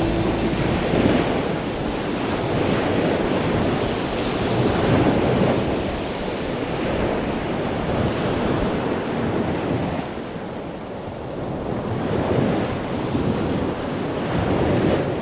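Ocean surf washing in, with wind buffeting the microphone; the noise swells and ebbs, dipping about ten seconds in.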